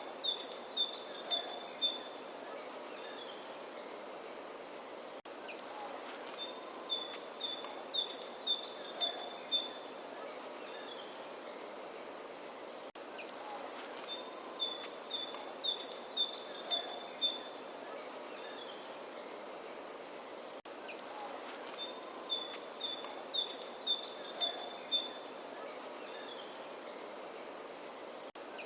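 A songbird singing over a light steady outdoor hiss. The same phrase comes round about every eight seconds: a high note sliding down, then a quick run of repeated chirps alternating between two pitches.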